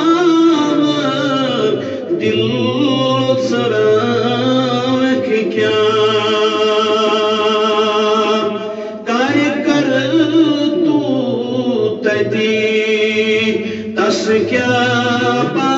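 A man singing a naat (devotional poem in praise of the Prophet) in solo voice, in melismatic phrases with long held notes. The longest note is held steady for about three seconds in the middle.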